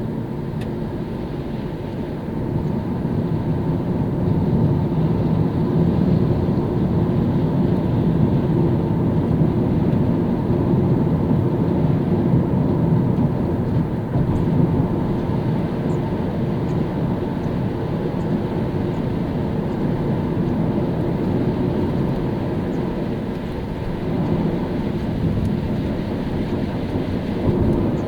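Car driving on a rain-wet road: steady tyre and road noise with the engine underneath, getting louder about three seconds in.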